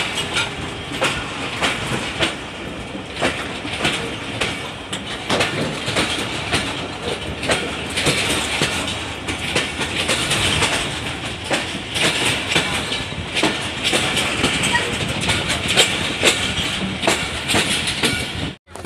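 Pakistan Railways passenger train running at speed, heard from on board: a steady rumble of wheels on the track, with sharp clickety-clack clicks about once a second. It cuts off abruptly near the end.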